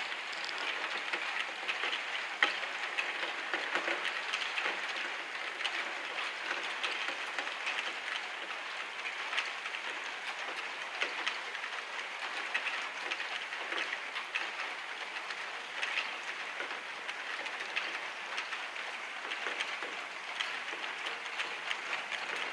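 Heavy rain falling steadily, a dense patter of drops hitting a hard surface, with no thunder.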